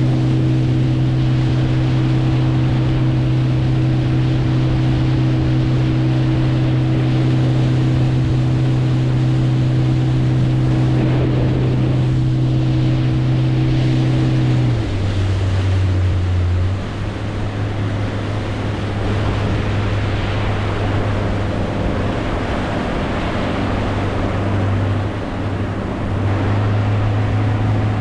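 Boat motor running at a steady pitch, with water and wind rushing past. About halfway through, the engine note drops abruptly to a lower, steady pitch, as when the throttle is eased back.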